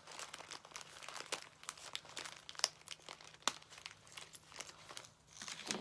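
Hands rummaging through small plastic craft pieces and packaging: faint, irregular crinkling with scattered sharp clicks.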